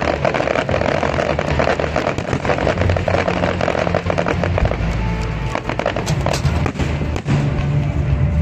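Music playing with fireworks crackling and banging over it. The dense crackling thins out about halfway, leaving scattered sharp bangs.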